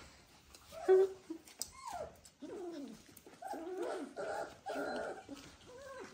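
Dalmatian puppies, about three and a half weeks old, whimpering and yelping in a string of short cries that fall in pitch, the loudest about a second in.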